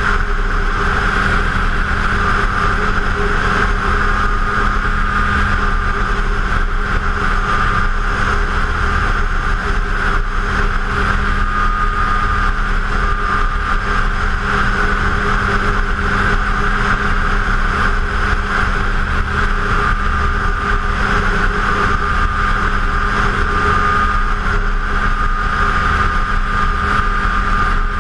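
Arctic Cat F7 Sno Pro snowmobile's two-stroke twin engine running steadily at an even cruising speed, with track and wind noise.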